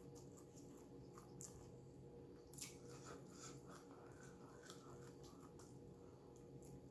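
Faint eating sounds of a person chewing food, with scattered small clicks and one sharper click about two and a half seconds in, over a steady low hum.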